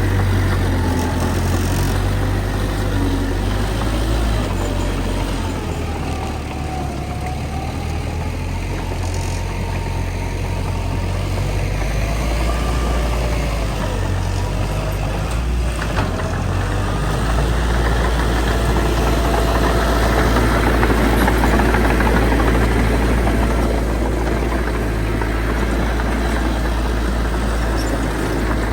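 Bulldozer's heavy diesel engine running under load with a steady low rumble, a faint whine wavering in pitch in the first third. There is a single sharp knock about sixteen seconds in, and the engine grows louder around twenty seconds in.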